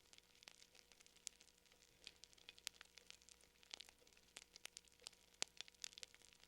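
Faint fire crackling: irregular small pops and snaps, several a second, over a soft hiss.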